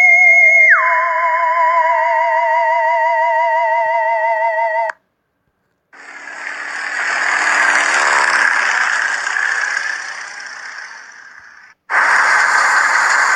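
Sound effects for a children's vehicle slideshow. First an electronic siren warbles, dropping from a high tone to a lower one about a second in, then stops abruptly. After a short silence a vehicle passes by, swelling up and fading away, and near the end a steady hissing noise cuts in.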